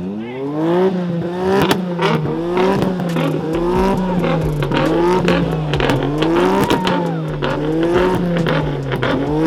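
Car engine revved over and over at a steady rhythm: the pitch climbs, then rises and falls about once a second, with sharp cracks throughout.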